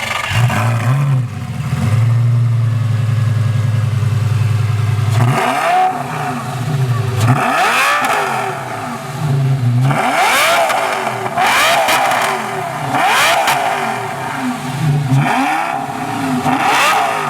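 Sports car engine idling steadily for about five seconds, then revved again and again in a string of quick throttle blips, each rising and falling back.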